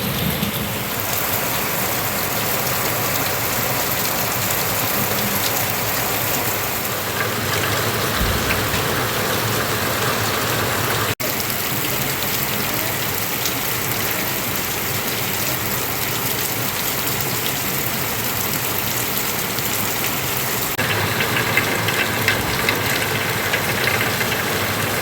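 Heavy rain falling steadily, an even hiss of drops on surfaces. It cuts out for an instant about eleven seconds in, and near the end turns crisper, with sharper individual drop patter.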